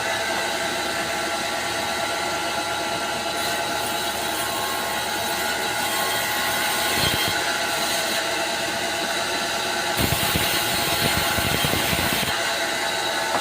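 Chainsaw ripping lengthwise through jengkol wood, its engine running steadily under load. About ten seconds in the cutting grows louder and rougher for a couple of seconds, then settles back.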